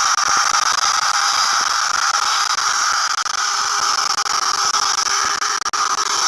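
Small DC motor of a homemade toy helicopter spinning its rotor at speed: a steady, high-pitched whirring whine.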